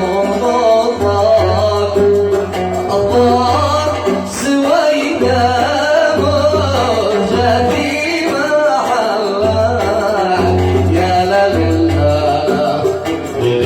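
Yemeni Sanaani song: a male voice sings a melismatic line over oud accompaniment, with a steady low pulse underneath.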